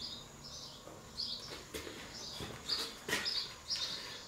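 A small bird chirping over and over, short high chirps about twice a second, with a few sharp clicks in between.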